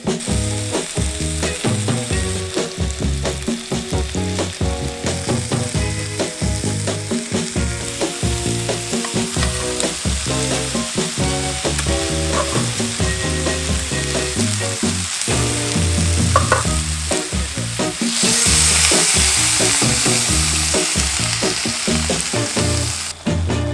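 Sausages, cabbage and onions sizzling as they fry in a pan over a wood fire in a firebox stove, with a louder stretch of sizzling near the end.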